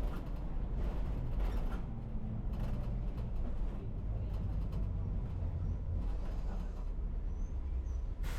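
Non-air-conditioned city bus running, heard from inside: a steady low engine and road rumble with a few brief knocks.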